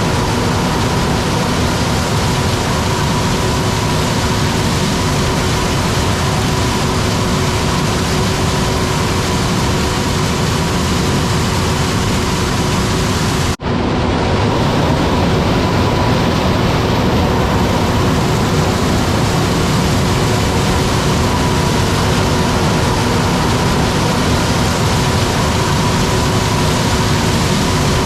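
Steady, loud machine noise with two constant hums running through it, broken by a brief cut about halfway through.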